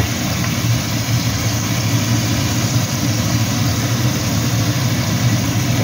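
Minced pork sizzling steadily in a hot wok, soy sauce just added, over a steady low hum.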